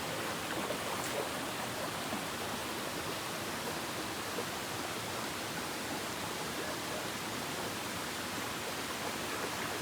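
Steady rushing of flowing water, an even hiss with no breaks or separate events.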